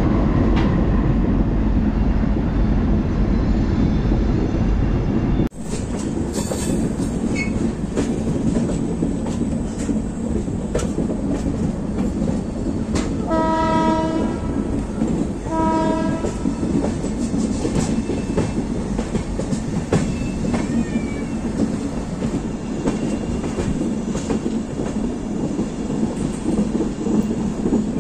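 Rajdhani Express passenger train running along the track, a steady rumble with the clatter of wheels over the rails. About halfway through, a train horn sounds twice: a short blast, then a shorter one about two seconds later.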